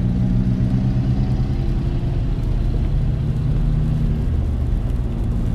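A car driving along: a steady engine hum under road noise, the engine note shifting slightly about three seconds in.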